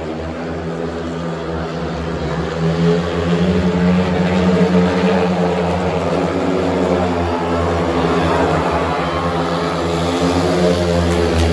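Several speedway motorcycles racing on a dirt track, their 500 cc single-cylinder engines running hard together in a continuous drone that grows louder a few seconds in.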